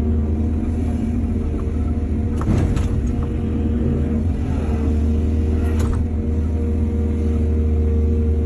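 Excavator diesel engine running steadily under load, with two sharp knocks about two and a half and six seconds in.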